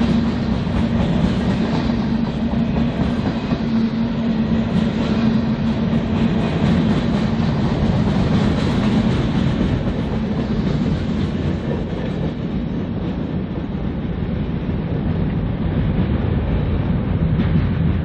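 A BNSF freight train's cars rolling steadily past, with wheel noise on the rails.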